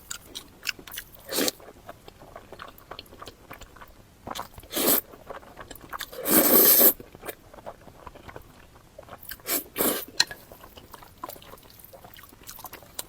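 Close-miked eating sounds: chewing and crunching with many small wet mouth clicks. Several louder bursts stand out, at about one and a half, five and ten seconds in, with the longest and loudest lasting nearly a second around six and a half seconds in.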